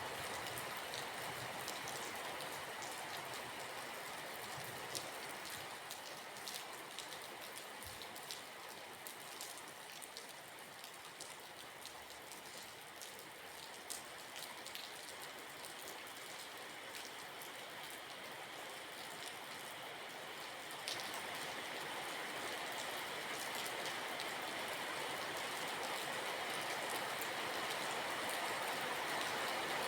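Steady rain falling, with many individual drops ticking through the hiss; it grows gradually louder over the last third.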